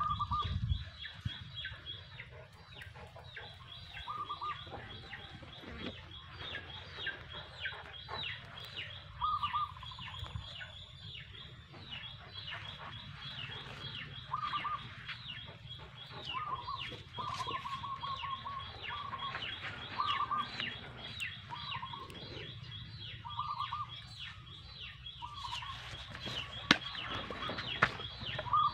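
Short clucking bird calls every couple of seconds, with a quick run of them in the middle, over a continuous high-pitched rapid chirring and scattered light clicks.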